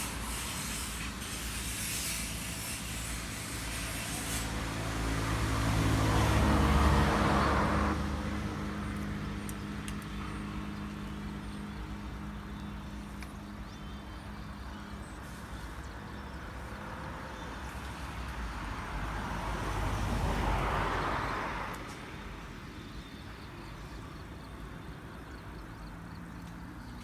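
Motor vehicles passing by on a road, one at a time: the first, the louder, swells and fades with a low engine hum about seven seconds in, and a second passes about twenty seconds in.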